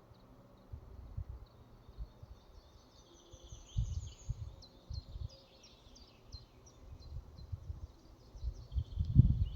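Forest ambience: small songbirds chirping with many short, quick calls high overhead, over irregular low rumbles of wind on the microphone that grow strongest near the end.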